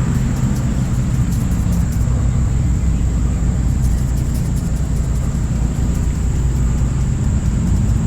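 Steady, loud low machine drone with a rumble.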